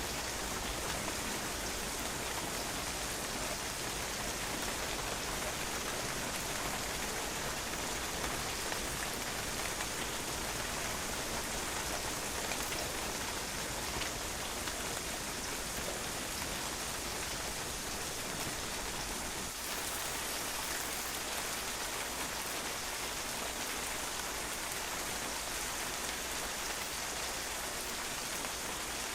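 Steady rain falling on a patio, drops splattering on the hard surface in an even, continuous hiss of many small strikes.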